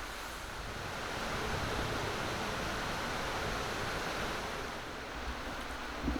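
Mountain stream rushing steadily, swelling slightly for a few seconds midway, with a short low knock near the end.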